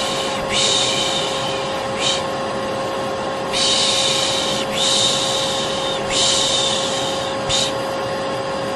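Vacuum cleaner running steadily with a constant motor whine, overlaid with repeated human 'shh' shushing ('piş piş') to soothe a baby to sleep. The shushes come as long hisses of about a second or more, with short ones in between.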